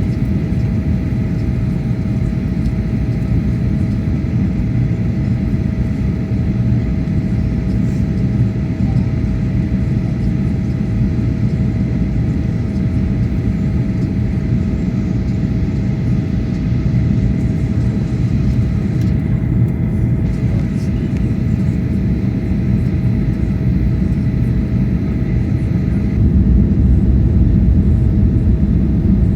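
Steady low cabin roar of a Boeing 737-800 on its landing approach, from airflow and the CFM56 jet engines, with a thin steady hum running through it. About 26 seconds in, the low rumble grows a little louder.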